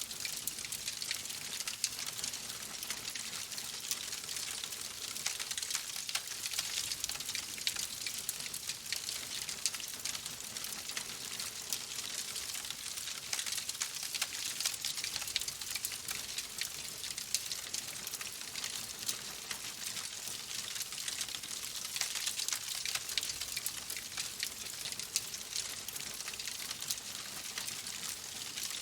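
Wood fire crackling in a fireplace: a steady hiss thick with small, rapid pops and snaps.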